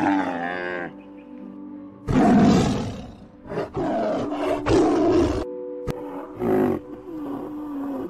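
A tiger roaring and growling several times, the loudest roar about two seconds in, over steady background music. A brief camel bellow comes at the very start.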